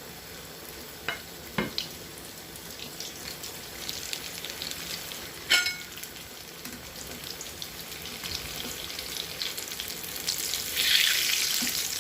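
Marinated mutton chops frying in hot oil: a steady crackling sizzle. There are sharp knocks about a second and a half in and a louder ringing one about five and a half seconds in, and the sizzle swells louder near the end.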